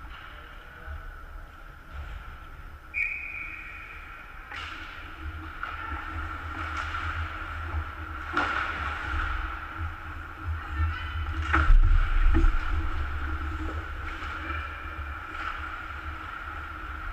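Ice hockey rink sound during a game: a steady low rumble of the arena, with a few sharp clacks of sticks and puck, the loudest about twelve seconds in. A short high steady tone sounds about three seconds in.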